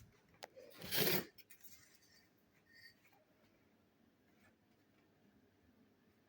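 A short rough scrape or rustle of something being handled, about a second in, with a sharp click just before it and a few light clicks after, then quiet room tone.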